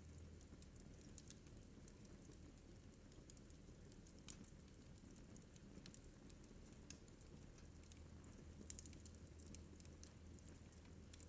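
Wood fire crackling faintly in a fireplace: scattered sharp pops and snaps, a little cluster of them near the end, over a low steady rumble.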